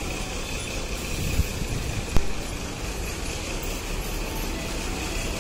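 Mumbai suburban EMU local train pulling in alongside the platform: a steady rumble with a faint, thin, high tone running through it and a single sharp click about two seconds in.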